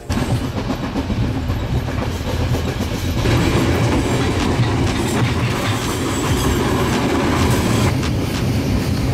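Passenger train running along the track, heard from inside the carriage: a steady rumble and rattle of the wheels and coach, which grows louder about three seconds in.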